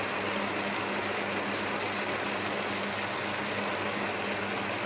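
Chicken thigh fillets sizzling steadily as they brown in hot oil in a frying pan, over a faint low hum.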